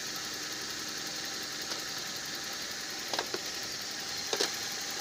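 Toyota Corolla engine idling steadily, with a few light clicks a little after three seconds in and again about four and a half seconds in.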